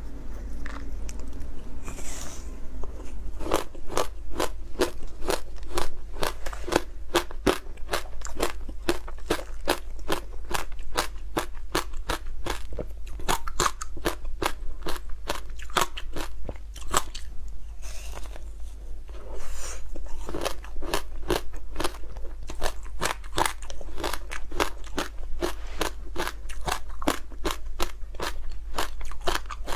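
Frozen passion fruit being chewed close to the microphone: a steady run of sharp, icy crunches, about three a second, after a first bite near the start.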